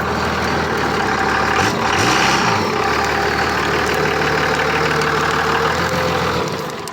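An engine running steadily, its pitch briefly rising and falling about two seconds in, then dropping away near the end.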